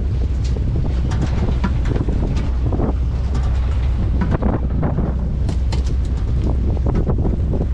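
Fishing trawler's engine running steadily with a deep, even hum, with wind on the microphone and scattered clicks and knocks throughout.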